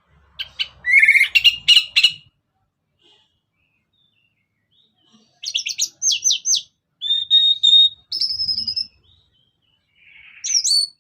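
Orange-headed thrush (anis merah) singing in three bursts of quick, high whistled notes and short trills, with pauses of a few seconds between them.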